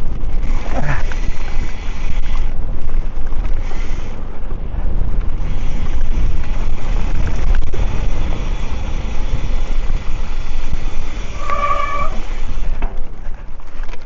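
Heavy wind buffeting the microphone, with a dense low rumble, while a mountain bike is being ridden. Near the end comes a brief high-pitched squeal lasting about half a second.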